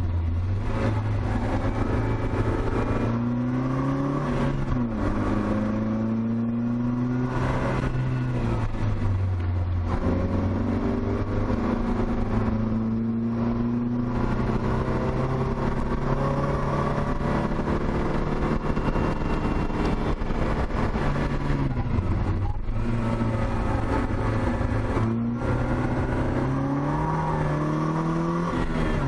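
Opel Speedster's 2.2-litre four-cylinder engine pulling hard on a track lap, heard from inside the open cockpit. The revs climb and drop over and over, broken by several gear changes and lifts for corners.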